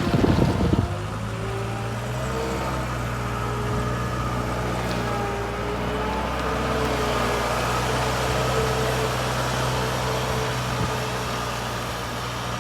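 Case 420 skid loader engine running steadily, with a short louder rumble about the first second.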